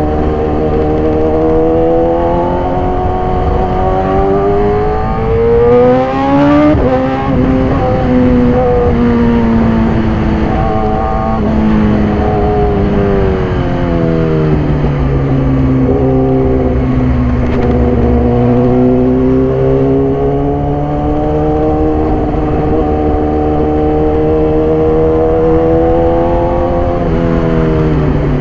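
2014 Yamaha YZF-R6 inline-four running through an SC-Project exhaust under way. The engine note climbs, drops suddenly about six seconds in, eases down, then builds slowly again before another sudden drop near the end.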